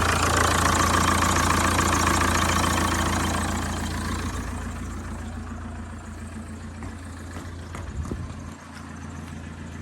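Saab 9-3 1.9 TiD Z19DT four-cylinder turbodiesel idling with a steady low hum, growing quieter after about three seconds. A short knock comes near the end, and the low hum then cuts out.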